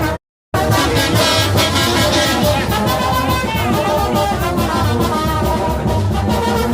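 Brass band music with a steady beat. It cuts out completely for a split second just after the start.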